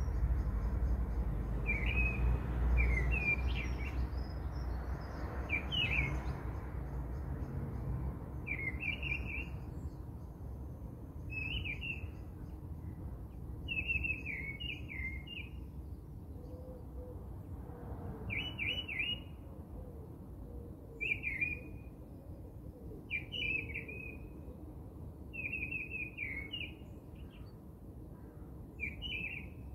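A bird chirping in short, high phrases every couple of seconds. A low rumble sits under the first several seconds.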